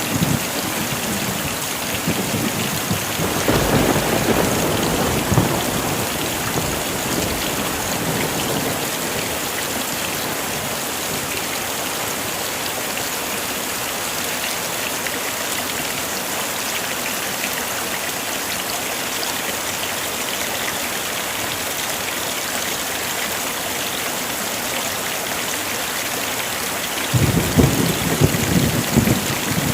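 Heavy rain falling steadily, with low rolls of thunder about three to five seconds in and again near the end.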